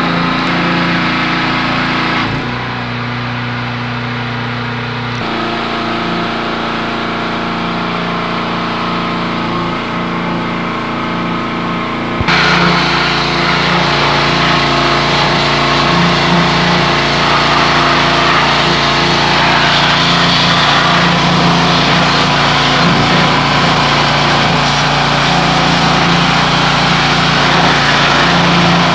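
A car-washing machine's motor running steadily, its note shifting a couple of times in the first few seconds. About twelve seconds in it turns louder and a steady hiss joins it.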